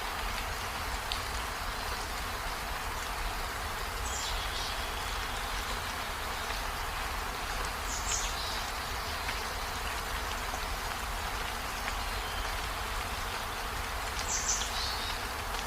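Steady rainfall, an even hiss. Three short high chirps come a few seconds apart over the rain.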